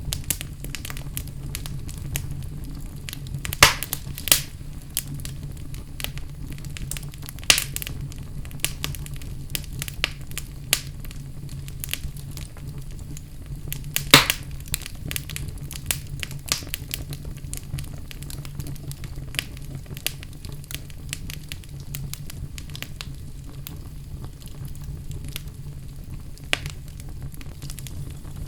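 Wood fire burning in a fireplace: a steady low rumble of the flames with frequent crackles and sharper pops, the loudest about 14 seconds in.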